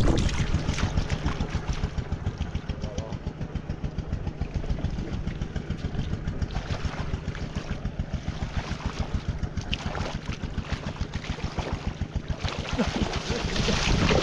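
A small engine running steadily, its firing pulses making a rapid, even beat; it grows louder near the end.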